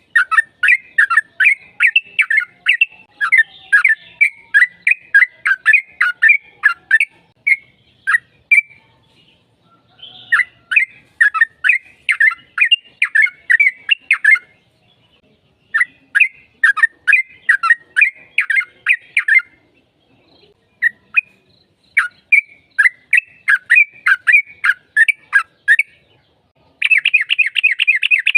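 Yellow-vented bulbul (trucukan) singing long runs of quick bubbly chattering notes, with short pauses between runs and a faster trill near the end.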